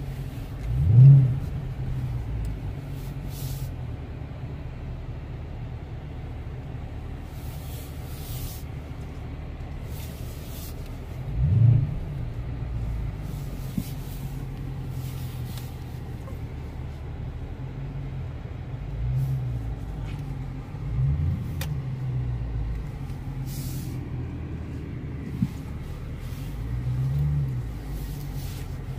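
Dodge Charger Daytona 392's 6.4-litre HEMI V8 running at idle, heard from inside the cabin. The engine note briefly rises a few times as the throttle is opened, most strongly about a second in and again near twelve seconds.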